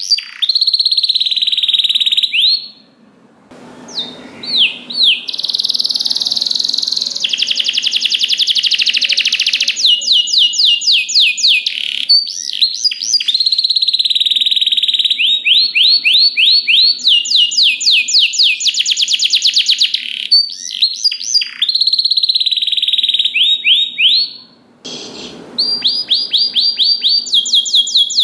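Domestic canary singing a long, continuous song of held whistled notes and very fast rolling trills, with a couple of short breaks.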